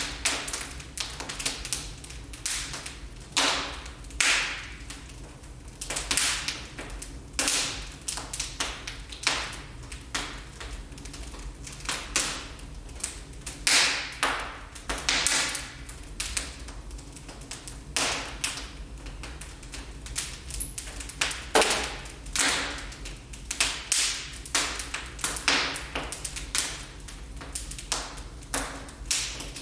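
Wood fire in a fireplace crackling, with irregular sharp snaps and pops, several a second, over a low steady rumble.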